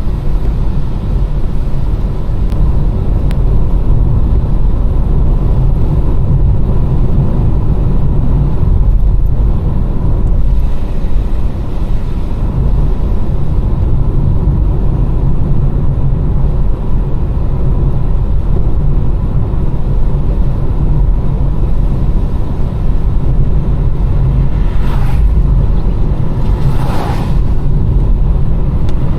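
Steady low rumble of a car driving on a rain-wet road, with two brief hissing swishes near the end.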